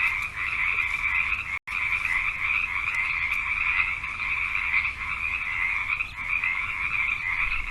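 A chorus of frogs croaking in a dense, continuous mass of calls. It breaks off for a split second about a second and a half in.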